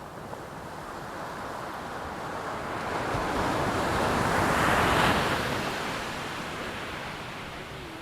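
PT-17 Stearman biplane's Continental R-670 seven-cylinder radial engine passing overhead, a rushing drone that swells to its loudest about five seconds in and then fades as it goes away.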